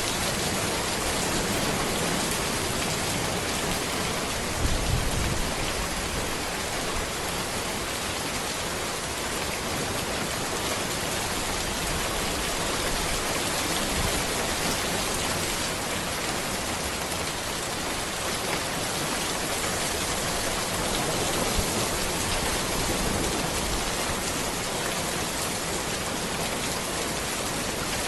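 Steady rain falling on a road, an even hiss of drops. A brief low thump about five seconds in.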